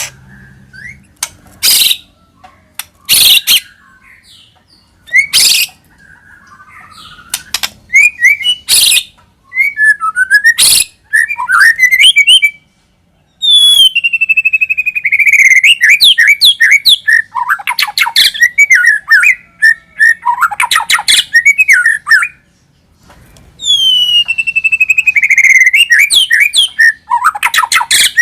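White-rumped shama (murai batu) song: loud harsh chattering calls in the first half, then phrases that open with a whistle sliding down in pitch and run into rapid, varied notes.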